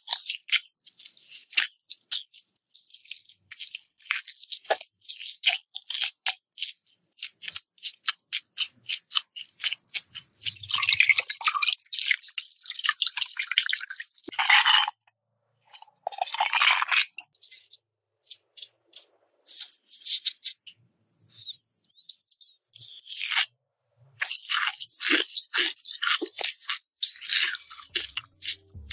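Close-miked chewing of crunchy food: rapid crisp crackles and clicks in bursts, with a few short pauses between mouthfuls.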